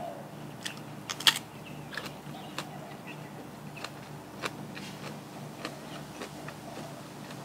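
Close-up chewing of food, with irregular crisp clicks and crunches, the loudest about a second in.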